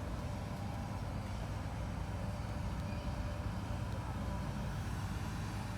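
Steady low rumble of a car's engine running, with no changes in pitch or level.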